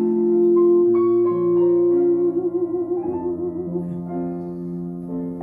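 Piano accompaniment playing sustained chords between sung lines, with the singer's held note trailing off in vibrato over the first half.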